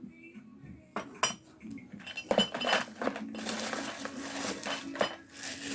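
Small metal objects clinking and knocking as tools are handled on a workbench: a few sharp clinks at first, then a busier run of clatter and rustling in the second half.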